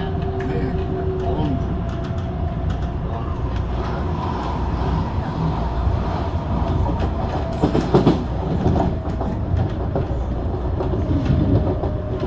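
MTR Tung Chung line CAF electric train running, heard inside the car: a steady rumble of wheels on track with a faint steady motor whine, and a short cluster of louder clatters about eight seconds in.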